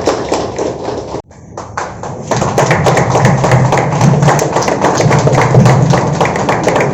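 Audience applauding with a dense patter of claps. It cuts off suddenly about a second in, and after a short gap, music with a pulsing beat and tambourine-like percussion starts.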